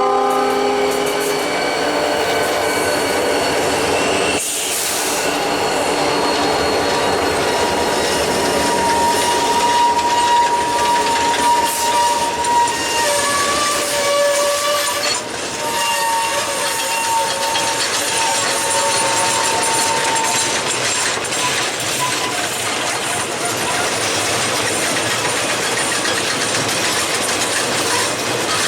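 Freight train rolling past: rail cars running by with a steady rumble and clickety-clack. A locomotive horn chord cuts off about a second in.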